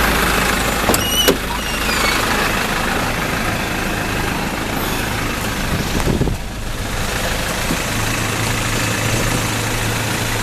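Truck engine running steadily, with two sharp clicks about a second in.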